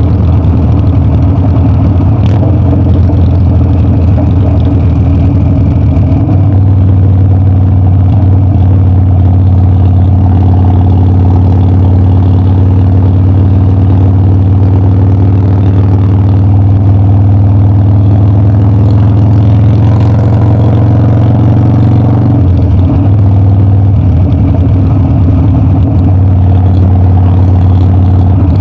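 Harley-Davidson Dyna's V-twin engine running loud and continuously. Its note is rougher at first, holds smooth and steady from about six seconds in, and turns rougher again at about twenty-two seconds.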